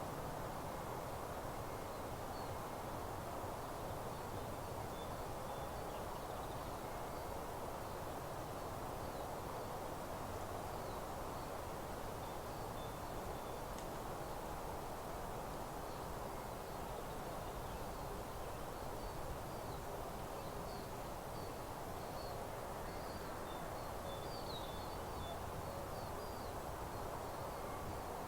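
Open-meadow ambience: a steady even background noise with faint, scattered high bird chirps, which grow more frequent in the last few seconds.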